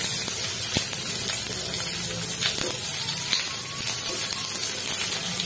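Onion pieces sizzling in hot oil in a kadai: a steady frying hiss with a few small pops.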